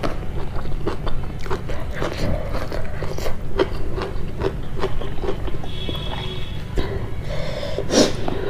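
Close-miked chewing of a mouthful of food, with many irregular wet mouth clicks and smacks.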